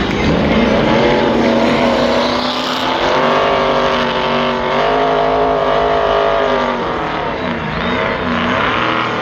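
NASCAR truck V8 engines racing past, several engine notes overlapping; the pitch climbs near the start, holds under power through the middle, then drops about seven seconds in as they lift and downshift.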